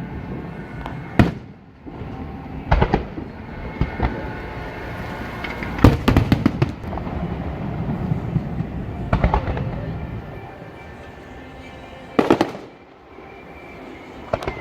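Aerial fireworks bursting: single booms every one to three seconds, with a rapid run of crackling reports about six seconds in, over a steady rumble between the bursts.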